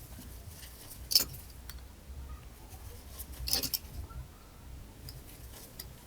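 A few light clicks and taps from a phone and its new screen being handled and pressed together during screen installation: one sharp click about a second in and a short run of clicks a little after three seconds in.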